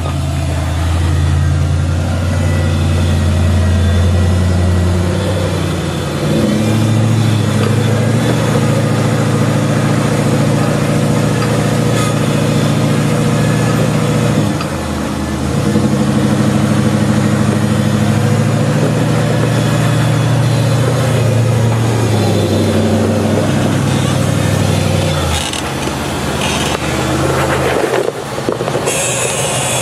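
Off-road 4x4's engine running at low revs under load on a rock trail climb, its pitch stepping up and down with the throttle and dipping briefly about halfway. Near the end the engine note drops back and a few sharp knocks are heard.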